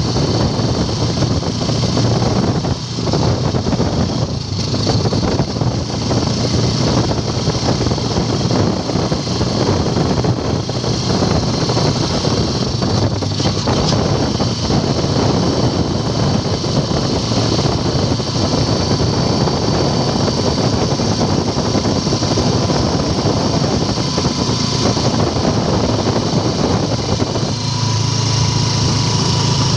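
Motorcycle engine of a Filipino tricycle (motorcycle with sidecar) running steadily while riding along a road, heard from inside the sidecar together with rushing wind and road noise. Near the end the sound changes, the low engine hum growing stronger.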